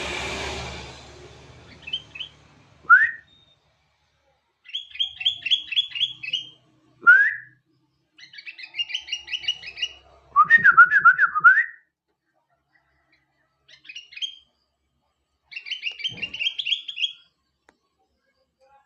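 Sooty-headed bulbul (kutilang) singing in separate phrases: short rising whistled notes and fast runs of repeated chattering notes, with pauses between phrases. A hiss fades out in the first second or so.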